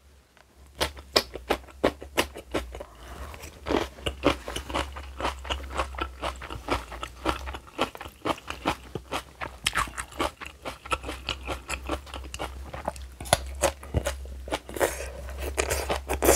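Close-miked crunchy chewing of spicy napa-cabbage kimchi, with many crisp bites and crunches following one another without a break.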